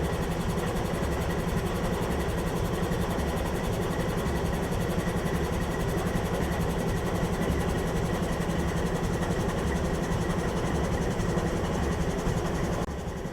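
Diesel locomotive engine idling: a steady, unchanging low drone with a constant hum.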